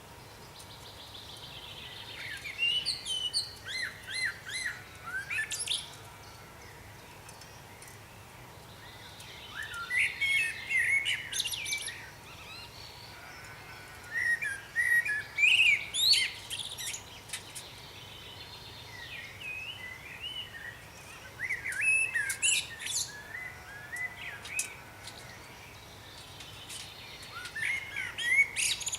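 Songbird singing: five songs of quick, varied whistles and trills, each two to three seconds long, repeated about every six seconds.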